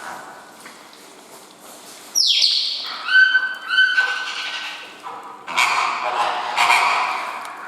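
Water birds calling: a sharp falling cry, then a few short pitched calls, then a run of harsh calls about once a second.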